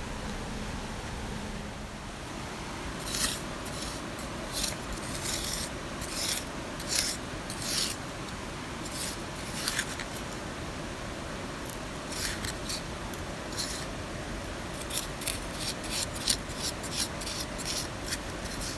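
Short, irregular scraping strokes, some single and some in quick runs, over a steady background hiss.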